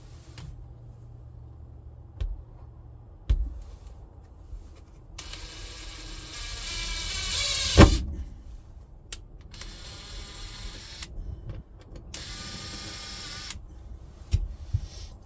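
Cordless drill driving self-tapping screws, in three short runs. The first run climbs in pitch and ends in a sharp clunk as the screw seats. A few handling knocks come between the runs.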